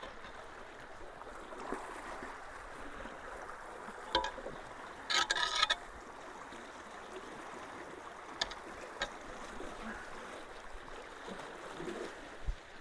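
Creek water rushing steadily through a road culvert, with a few sharp clicks and a brief rattle about five seconds in.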